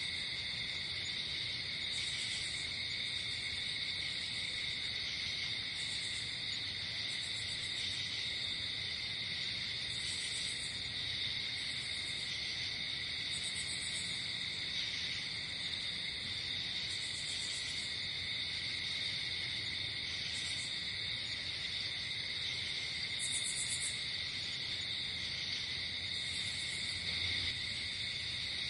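Night insect chorus: a steady, high-pitched cricket trill runs unbroken, overlaid by short, higher buzzy bursts from other insects every second or two.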